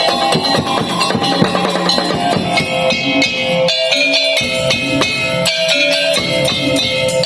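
Madurese tong-tong (daul) ensemble playing: fast drum and percussion strikes under steady pitched melody lines. The low drums drop out briefly about four seconds in and again about a second and a half later.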